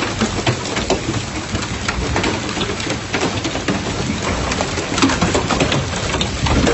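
Heavy rain pouring down, with a constant dense hiss and many sharp taps of drops striking hard surfaces.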